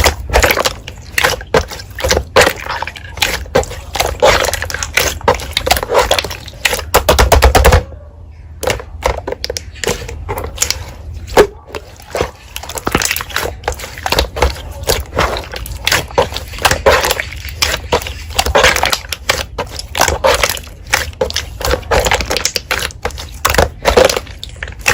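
Slime being squeezed and pressed by hand, giving dense runs of wet clicks and pops, with a brief pause about eight seconds in.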